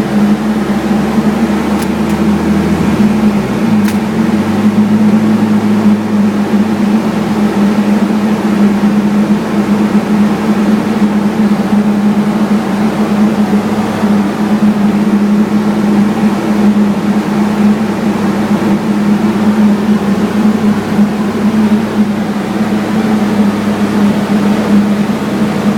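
Turbocharged Nissan SR20DET four-cylinder engine with a Garrett GT2871 turbo, running loud and steady at a constant speed, its pitch holding level throughout.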